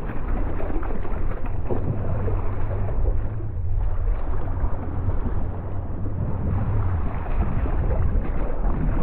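Wind rumbling on the microphone over steady splashing of water around a kayak.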